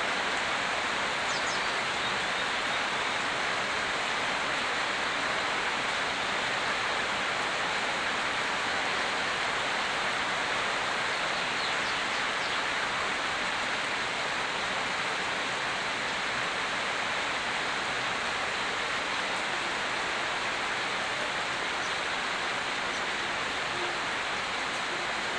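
Steady heavy rain, an even continuous hiss of falling water with no change in level.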